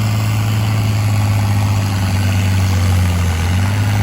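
Heavy pulling-tractor engine running steadily at a low, even pitch, with a brief dip in pitch about three seconds in.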